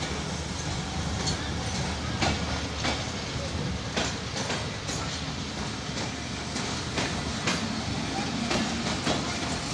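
Pakistan Railways passenger coaches rolling past a station platform: a steady rumble of wheels on rail, with sharp clicks at uneven intervals as the wheels cross rail joints.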